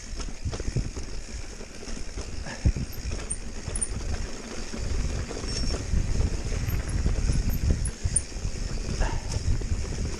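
Mountain bike riding over rough, bumpy ground: an irregular rumble of knocks and rattles that grows louder from about five seconds in.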